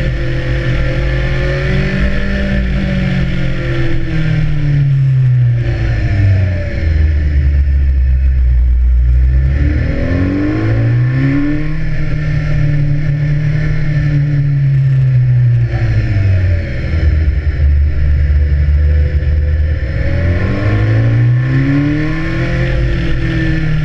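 BMW S1000R's inline-four engine under way, the revs rising and falling through the gears: the pitch drops off, climbs hard, holds, drops again, and climbs once more near the end.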